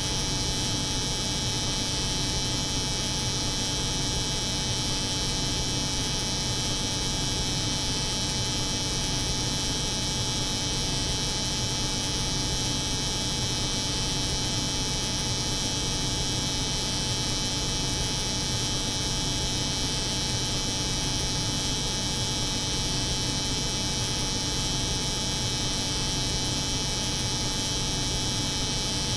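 An electric hair clipper buzzing steadily, layered with the hum of a cold room. The sound is a constant mix of a low buzz and a high hiss that never changes.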